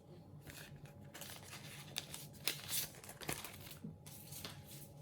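A foil sticker packet being torn open by hand, its wrapper crinkling and crackling, loudest around the middle.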